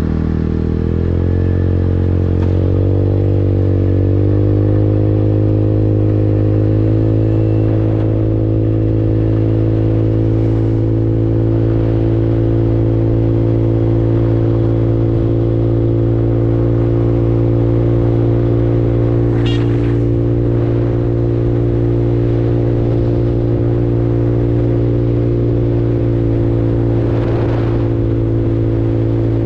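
Engine of a 150cc Super Hornet automatic scooter-motorcycle rising in pitch over the first few seconds as it accelerates. It then runs at a steady, even note at cruising speed.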